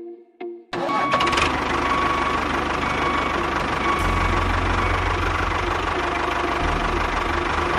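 An engine running steadily, cutting in abruptly about a second in.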